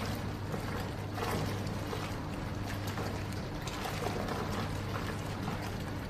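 Washing machine running: a steady low hum with a churning, water-like wash over it.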